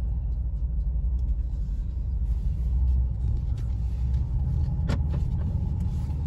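Mercedes-AMG CLS 63 S twin-turbo V8 running low and steady as the car pulls away and drives slowly, heard from inside the cabin. A single sharp click sounds about five seconds in.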